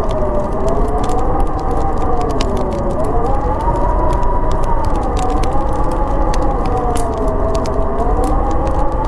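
Howling storm wind: a wavering whistle slowly rising and falling in pitch over a steady low rumble. A wood fire crackles throughout with frequent small sharp pops.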